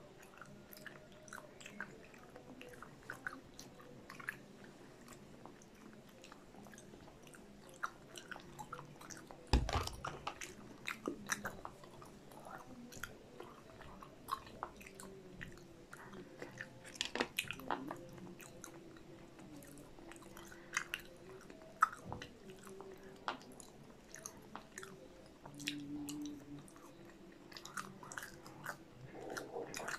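Close-miked chewing and biting of cheese-coated fried popcorn chicken, with many small wet mouth clicks. There is one sharp thump about ten seconds in.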